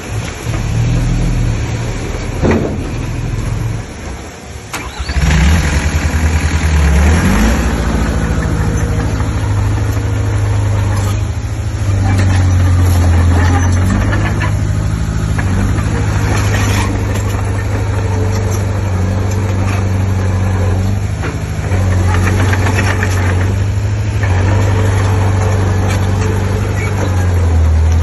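Heavy diesel engine of earth-moving machinery running hard, easing off briefly about four seconds in, then revving up and holding a loud, steady pull.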